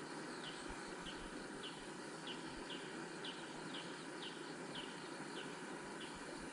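A small animal's short, high, slightly falling chirp, repeated about twice a second, over a steady faint hiss of outdoor background noise.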